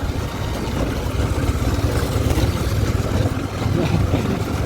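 Motorcycle engine running under way, a steady low fluttering rumble, with wind noise on the microphone.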